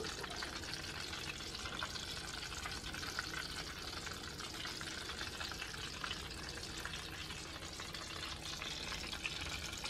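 Crab cakes shallow-frying in hot oil in a pan: a steady sizzle full of fine crackling.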